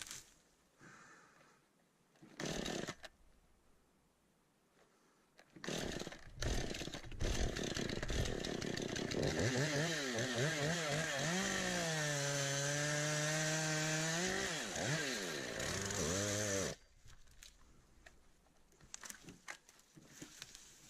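Stihl MS 251 C two-stroke chainsaw, with a brief blip of throttle early on. About six seconds in it revs up and cuts into a big pine log, its pitch dropping and wavering as the chain bogs under load. It cuts off suddenly near the end.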